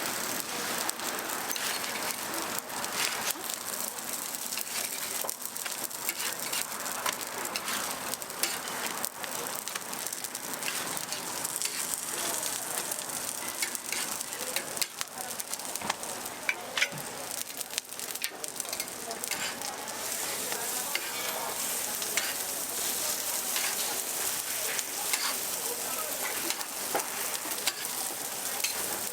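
Oil sizzling steadily on a hot griddle as sorghum-and-glutinous-rice pancakes (susu bukumi) pan-fry, with scattered sharp crackles and ticks.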